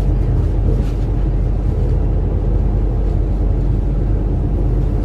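Cabin noise inside a moving CRH1A electric multiple-unit train: a steady low rumble.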